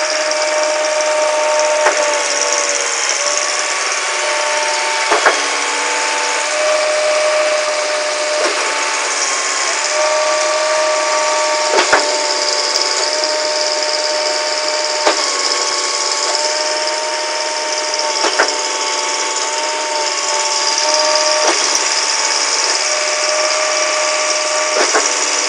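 Truck-mounted concrete pump running, with a sharp knock about every three seconds as the pumping stroke changes over, and a steady whine whose pitch steps to a new note at each knock.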